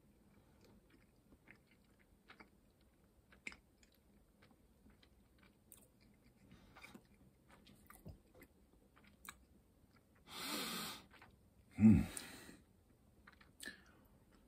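A man chewing a pickled jalapeño quail egg, with faint wet mouth clicks. About ten seconds in there is a breathy exhale lasting about a second, then a short louder low sound about two seconds later.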